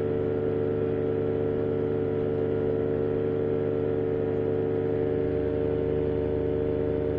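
Vittorazi Moster 185 single-cylinder two-stroke paramotor engine running at steady power in flight, with a steady drone. The propeller is sounding terrible because a repair to it has failed.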